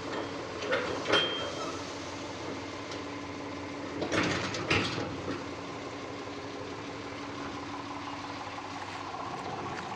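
Eicher 485 tractor's diesel engine running steadily, with a few sharp knocks about a second in and again around four to five seconds in.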